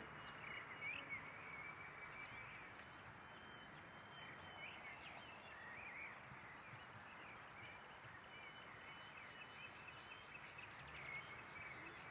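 Faint outdoor background hiss with small birds chirping in short, wavering calls throughout.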